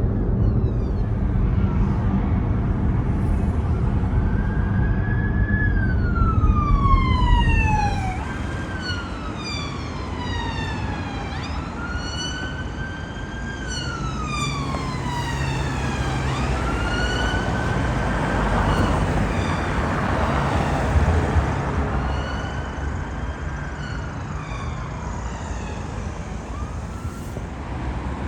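Emergency vehicle siren on a slow wail, its pitch rising and falling about every five seconds. A heavy low vehicle rumble sits under it for the first eight seconds or so, then fades.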